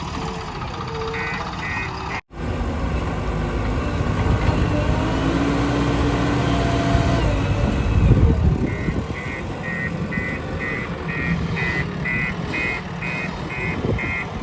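Diesel engines of a backhoe loader and a truck running at a mud-loading site, with a reversing alarm beeping about twice a second, briefly near the start and again through the last six seconds. The sound cuts out for an instant about two seconds in.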